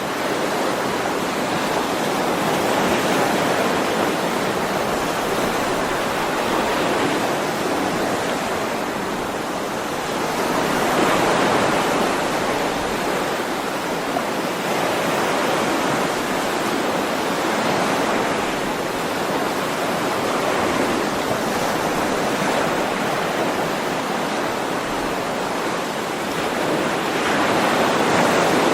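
Ocean waves washing onto a shore, a continuous rush of surf that swells and eases every few seconds.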